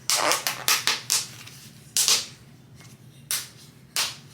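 Sharp clicks and knocks of a stuck container lid being fought with and worked open: a quick flurry in the first second, then single knocks about two, three and four seconds in.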